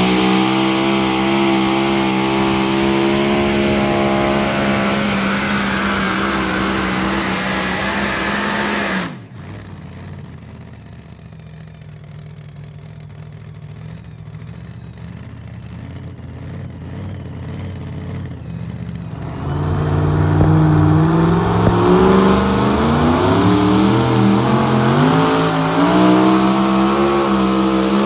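Pulling vehicle's engine running loud at high revs, cutting off abruptly about nine seconds in. After a quieter stretch, an engine revs up again at about twenty seconds and holds at high revs.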